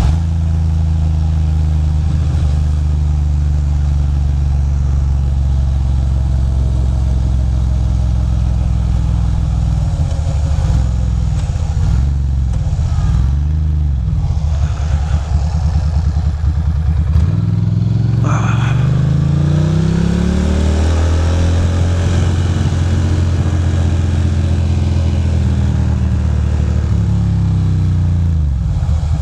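Ducati Monster 620's air-cooled L-twin engine running under way. It is steady at first, then the revs fall and rise several times. About two-thirds of the way in the revs drop suddenly, then climb steadily as the bike accelerates.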